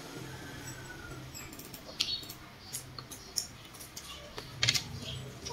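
Wet chewing and mouth sounds of someone eating juicy watermelon: a scatter of short, sharp smacks and clicks, loudest about two seconds in and near the end, over a low steady hum.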